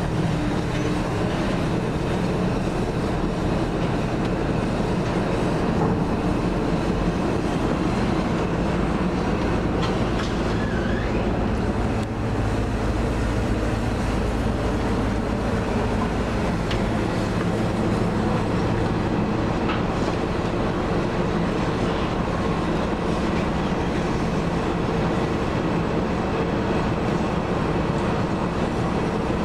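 Car ferry under way: its engines running with a steady low drone and hum.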